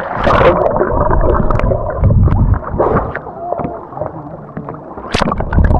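Water sloshing and splashing around a kayak, with irregular knocks and heavy low rumble from handling or wind on the microphone, and a sharp click a little after five seconds.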